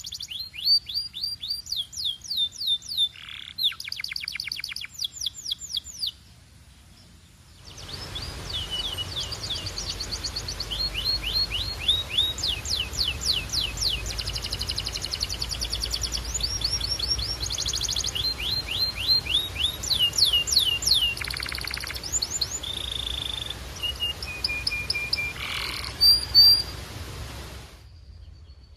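Canary singing in fast trills and rolls of rapidly repeated high notes, with some longer held notes. The song pauses briefly about six seconds in, then resumes over a steady low hiss and stops near the end.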